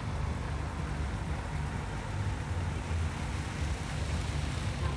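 Subaru Impreza's engine running with a steady low rumble as the car drives round the snow track.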